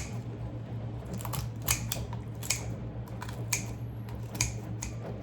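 Kitchen scissors snipping through a raw chicken's rib bones: a string of sharp clicks about two a second. A steady low hum runs underneath.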